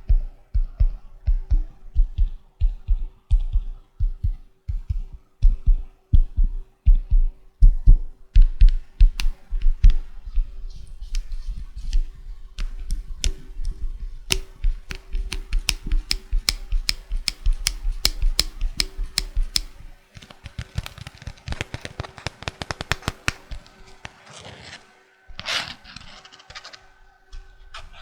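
Fingers tapping and clicking on a plastic floppy disk in a quick rhythm. The taps are deep and thumpy for the first several seconds, then turn to sharp, rapid clicks, and become a denser patter with one louder scrape near the end.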